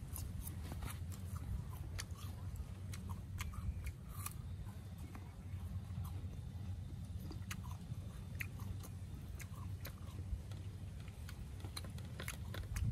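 A person chewing crisp raw fruit with the mouth open, giving irregular wet crunching clicks, over a steady low hum.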